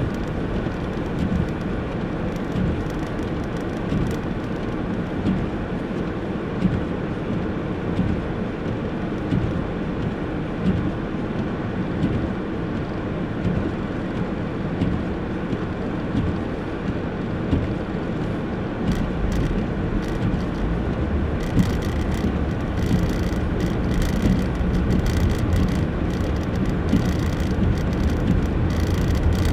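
Steady road and engine noise of a car driving on a snowy road, a low rumble throughout. About two-thirds of the way in, a brighter hiss with light crackling joins and stays.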